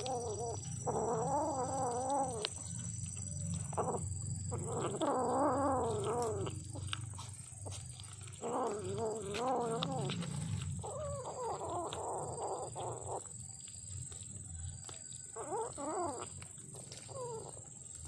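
Kitten giving a series of long, wavering warbled growl-yowls, about six of them with short pauses between, over a low rumbling growl: the angry sound of a kitten guarding its food while it is disturbed at eating.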